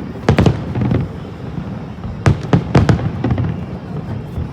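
Aerial fireworks shells bursting: a couple of sharp bangs just after the start, then a quick run of several bangs a little past the middle, over a continuous rumble of booms.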